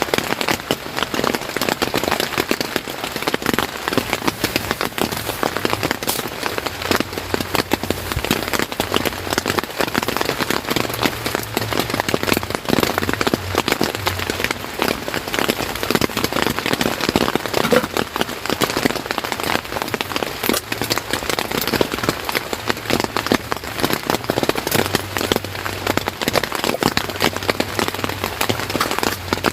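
Steady rain falling, a dense, even patter of many drops without let-up.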